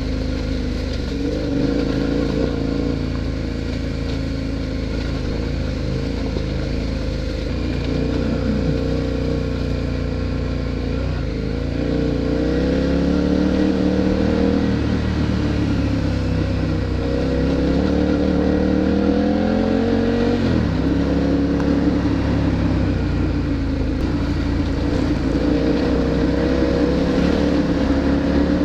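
KTM V-twin adventure motorcycle engine running under way, its pitch climbing and falling with throttle and gear changes, with a clear drop about 20 seconds in, over wind and road noise.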